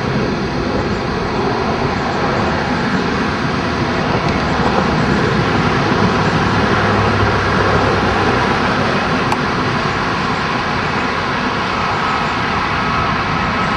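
Boeing 767 jet engines running on final approach: a steady roar that swells a little midway.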